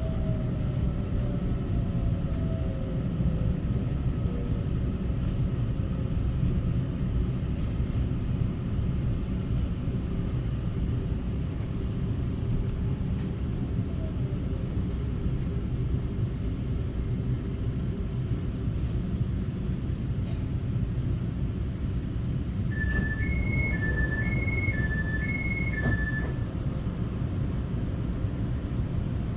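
Taiwan Railway EMU900 electric multiple unit running, a steady low rumble of wheels and running gear, with a faint motor whine falling in pitch at the start. About 23 seconds in, a high two-note signal sounds, alternating between two pitches for about three and a half seconds.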